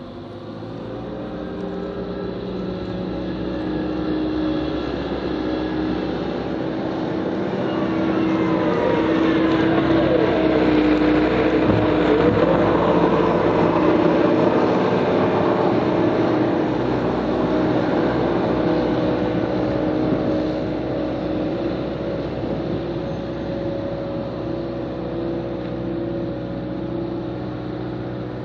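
Diesel engine of snow-clearing equipment running under load, growing louder over the first ten seconds, with some brief rises and falls in pitch in the middle, then easing slightly after about twenty seconds.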